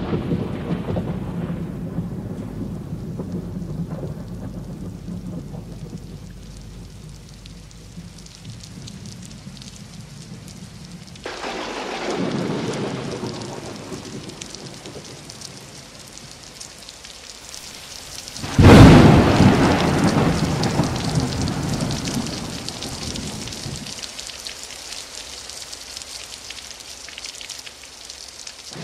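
Thunderstorm with steady heavy rain. A peal of thunder rolls in about a third of the way through, then a sudden, much louder thunderclap a little past halfway rumbles away over several seconds.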